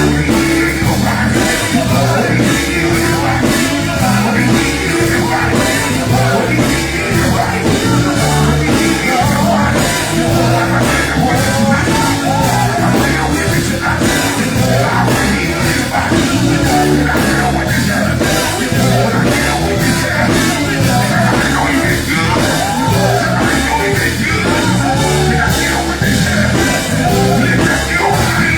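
Loud live gospel group performance: a band playing with a steady drum beat under singing voices.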